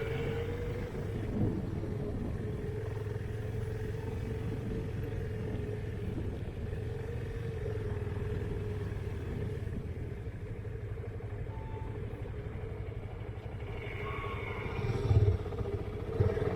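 Motorcycle engine running steadily at a fairly even speed, with a couple of short thumps near the end.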